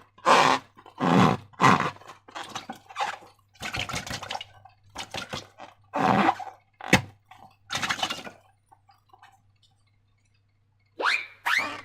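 Slime being squished by hand: a run of wet squelches and crackles, with one sharp click about seven seconds in, a short pause, then a rising squeak near the end.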